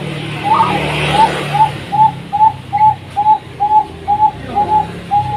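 Zebra dove (perkutut) cooing: a run of about eleven short, evenly spaced coos, roughly two a second, starting about half a second in, over a low steady hum.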